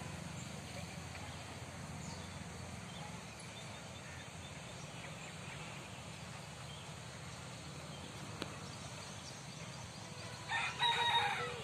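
A loud bird call about a second long near the end, over a steady low background rumble.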